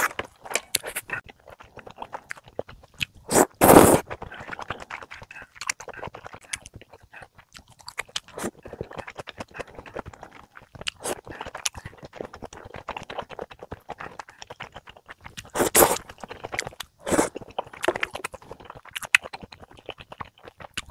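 Close-miked chewing of budae jjigae (ham and sausage stew), with wet mouth sounds and chopsticks clicking and scraping in the pan. There are two louder noisy bursts, one about four seconds in and one near sixteen seconds.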